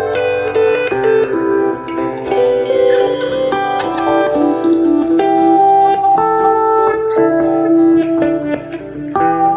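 Music played on a plucked string instrument: a run of picked notes and chords, with no singing.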